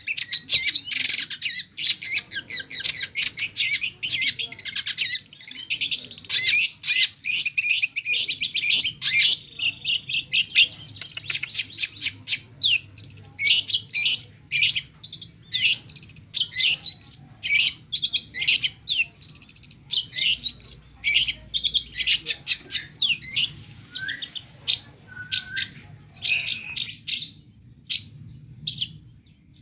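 Long-tailed shrike (cendet) singing a loud, fast, varied song packed with mimicked calls of other birds. It is a dense rapid chatter for about the first nine seconds, then breaks into separate whistled and chattering phrases.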